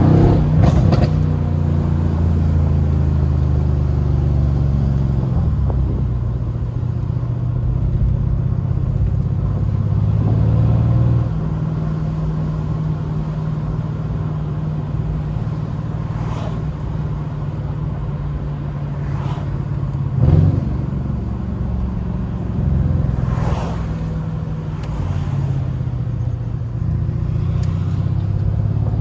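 Mercedes-AMG C63's twin-turbo V8 running under way, its note stepping down in pitch a few times in the first ten seconds or so. A few short sharp sounds cut through, the loudest about twenty seconds in.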